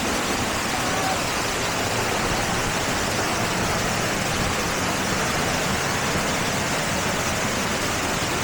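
Waterfall heard close up: a steady, loud rush of falling water.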